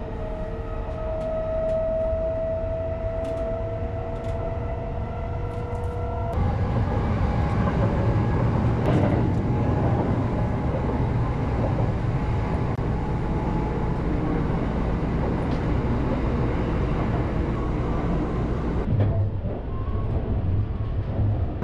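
Running noise heard inside a carriage of the Kintetsu Shimakaze, an electric express train under way: a steady low rumble of the wheels and the car. For the first six seconds a pair of steady tones, rising slightly in pitch, sits over the rumble. Then the sound changes abruptly to a broader rumble and rush.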